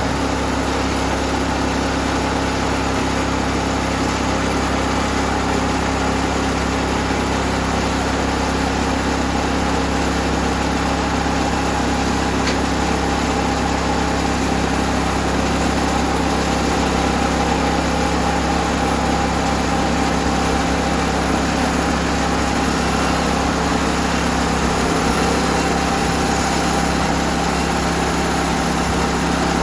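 Portable sawmill's engine running steadily as the mill saws through a black walnut log with wonky grain, fed slowly so the blade doesn't dive.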